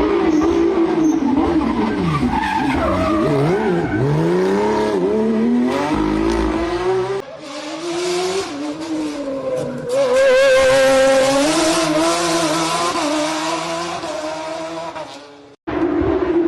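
Rally car engines at full throttle, the pitch sweeping up and down with revving, lifts and gear changes, in several clips cut one after another. The sound breaks off abruptly about 7 seconds in and again about 15 seconds in.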